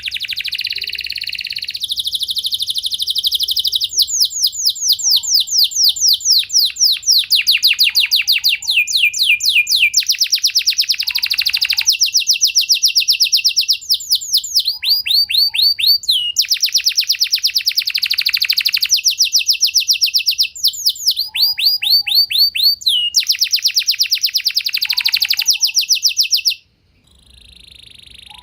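Domestic canary singing a long unbroken song of rapid trills, runs of fast repeated whistled notes that change pitch and speed from phrase to phrase. The song stops abruptly near the end.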